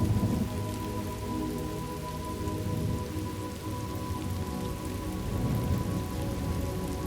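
Steady rain ambience, with low rolling thunder swelling underneath and a faint sustained tone.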